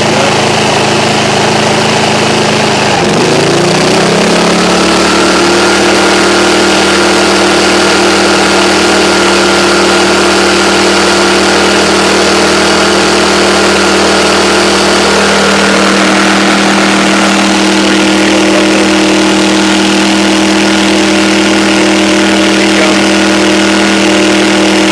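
Fuji Micro 3700ER portable generator's engine running with a plugged-in Ryobi device as a load. Its pitch shifts and settles about four seconds in, then holds steady with a slight change about two-thirds of the way through.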